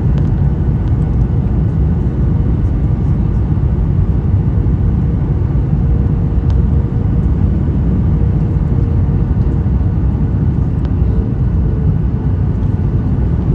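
Steady, loud low rumble of a Boeing 737 jet airliner heard from inside the passenger cabin: engine and airflow noise, with a faint steady hum above it.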